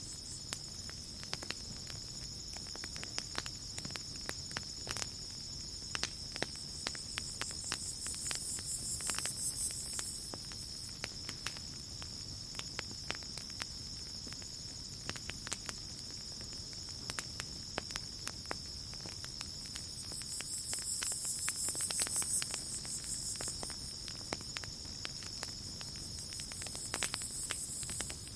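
Campfire crackling with scattered small pops, over the steady high chirring of crickets. A higher insect buzz swells up and fades three times: about a third of the way in, around three-quarters through, and near the end.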